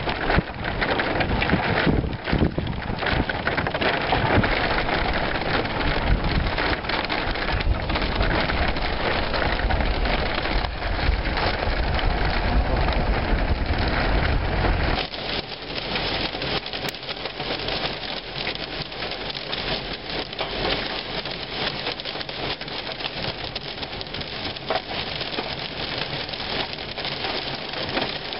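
Heavy thunderstorm rain pouring down, with strong wind rumbling on the microphone for the first half. About halfway through the wind rumble cuts out and the rain goes on as a dense drumming on the car's roof and windscreen.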